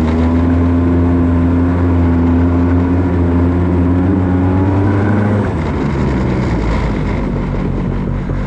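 The 277cc engine of a homemade firewood machine running hard as it pulls through deep snow. It holds high revs, then eases off to a lower speed about five seconds in.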